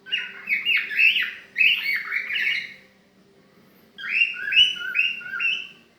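Pet cockatiel chirping: a quick run of short calls, a pause of about a second, then four more evenly spaced calls.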